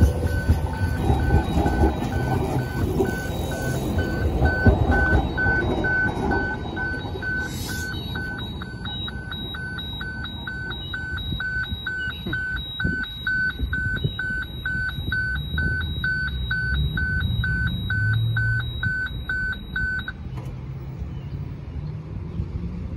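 Queensland Rail Tilt Train running past close by, a loud rumble of wheels on rail over the first few seconds, with a level crossing's electronic warning bell pulsing about twice a second. The bell stops suddenly about twenty seconds in as the crossing clears.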